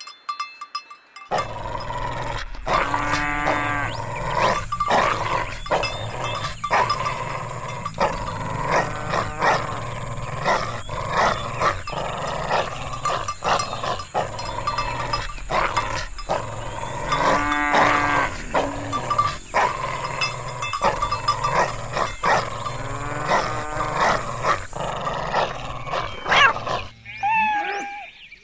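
A dog growling, with repeated drawn-out pitched animal cries and a steady thin high whine behind. Near the end, chickens clucking.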